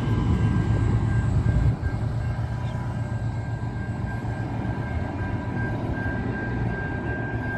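Commuter train pulling away from a station platform: a steady low rumble with a thin high whine, easing slightly about two seconds in as the train moves off.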